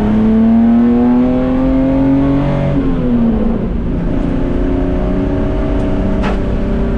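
Datsun 240K straight-six race engine pulling hard, its note rising for the first couple of seconds, then dropping sharply at a gear change before it pulls again steadily. A single sharp click comes near the end.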